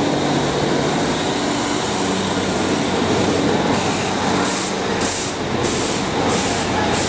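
A train running through the station with a continuous rumble, joined about halfway through by a regular high hissing beat, roughly one and a half pulses a second.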